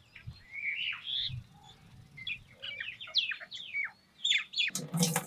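Small birds chirping, a string of short, quick downward-sweeping chirps and calls. A loud rushing noise starts near the end.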